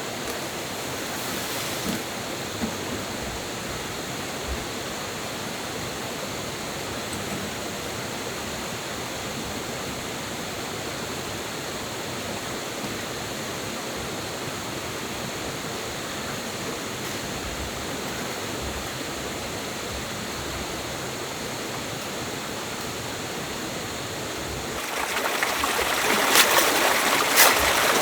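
A stream running steadily. About 25 seconds in, the water gets louder and closer, with sharp splashes.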